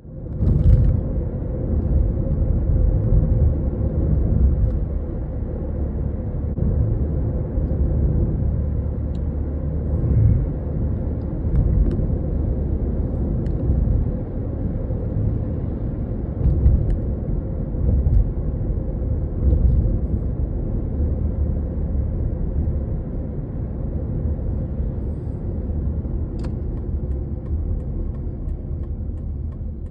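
Toyota Estima ACR55W minivan on the move: a steady low rumble of road and running noise, with a faint steady hum and a few faint clicks.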